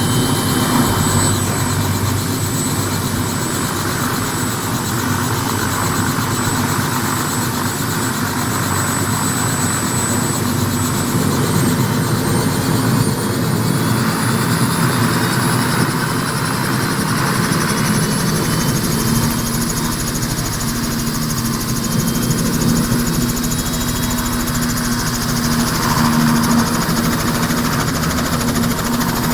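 Robinson R66 helicopter running, its Rolls-Royce RR300 turboshaft giving a high whine that climbs slowly in pitch from about a third of the way in. The low rotor throb grows stronger in the second half.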